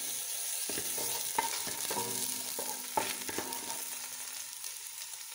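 Chopped ginger and garlic sizzling in hot oil in a non-stick pan, with a hiss that eases slightly toward the end. A utensil knocks against the pan about five times as the pieces are stirred.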